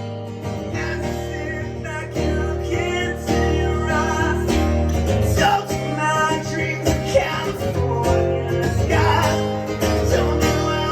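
Live acoustic guitar strumming with a man singing over it.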